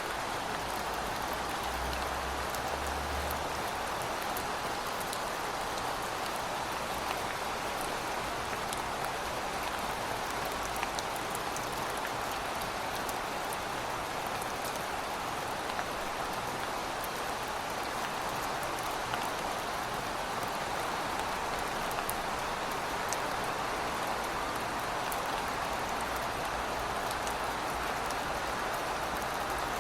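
Heavy rain falling steadily, a dense even hiss with scattered sharp drop ticks. A faint low rumble runs underneath, a little stronger for a moment near the start.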